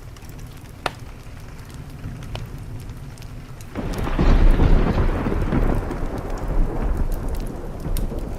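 Steady rain against a window with a few sharp pops from a crackling wood fire. About halfway through, a thunderclap breaks in suddenly and rolls on as a deep rumble that slowly fades.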